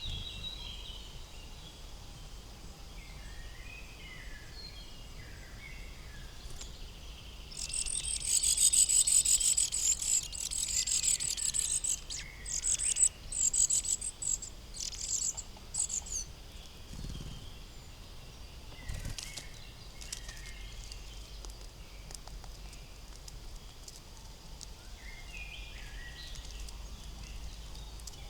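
Forest songbirds singing and calling. About eight seconds in, a loud, high, rapidly pulsing trill runs for several seconds and breaks into shorter bursts before stopping; short calls follow near the end.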